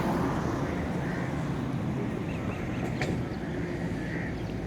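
Steady low rumble of traffic passing on a motorway bridge.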